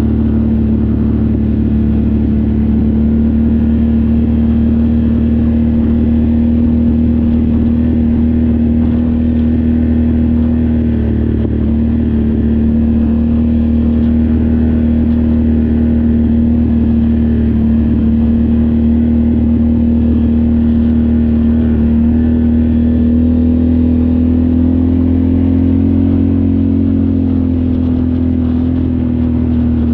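An off-road ATV engine running under steady load at an even cruising pitch, rising a little and settling back near the end.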